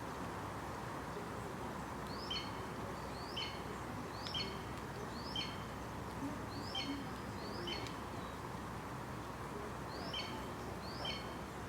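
A small animal's short chirping call, repeated about once a second with a brief pause partway through, over a steady low background rumble.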